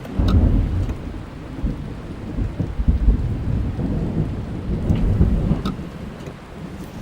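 Thunder rumbling heard from inside a car, swelling just after the start and again in the middle before fading near the end, over steady rain falling on the car, with a few sharp drop ticks.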